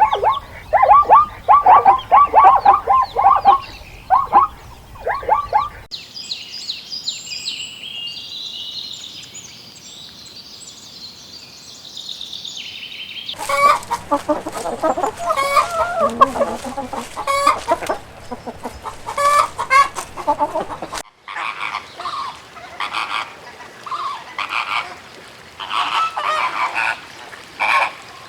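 Poultry calling in several back-to-back stretches: repeated short clucking calls, then about six seconds in a stretch of high, thin peeping, and from about thirteen seconds in dense, overlapping flock calls.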